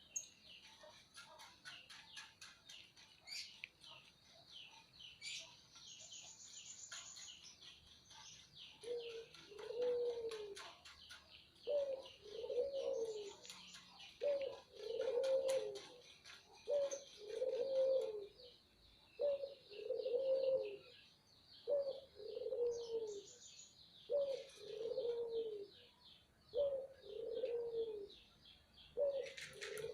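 Birds chirping rapidly and high-pitched without a break. From about nine seconds in, a lower call rises and falls once and repeats about every two and a half seconds, louder than the chirping.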